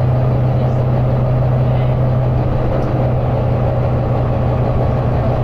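Volvo B9TL double-decker bus's diesel engine running hard at a steady speed, a loud, constant low drone mixed with road and cabin noise, heard from inside the bus.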